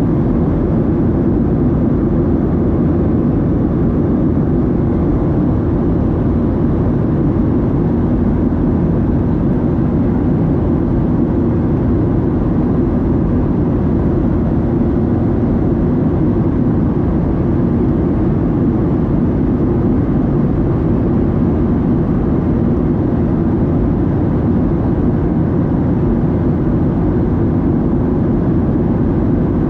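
Steady, loud cabin noise inside a Boeing 737-700 in flight: its CFM56-7B jet engines and the rush of air past the fuselage, a low, even rumble that does not change.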